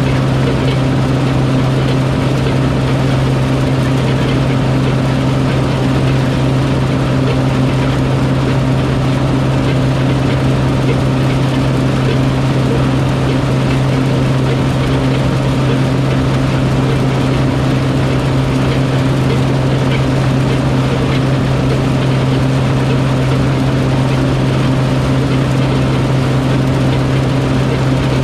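Heavy farm machinery engine running at a steady speed: a constant drone with a strong low hum that does not change.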